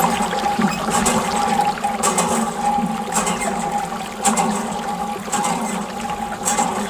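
Water splashing and trickling from a small model water pump, over a steady motor whine, with irregular splashy surges every second or so.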